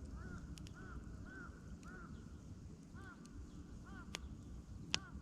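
Wood campfire burning with a low rumble and two sharp pops, one about four seconds in and a louder one near the end. Over it a bird calls repeatedly in short, rising-and-falling notes, about two a second.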